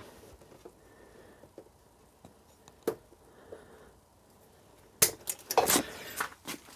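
Hard parts or tools being handled: one sharp click about three seconds in, then a quick run of clinks and clatter over the last two seconds.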